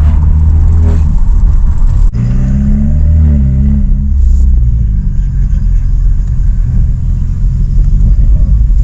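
Straight-piped BMW F30 328i's turbocharged four-cylinder running with a loud, deep exhaust note. It cuts off sharply about two seconds in, then the engine speed briefly rises and falls before settling into a steady run.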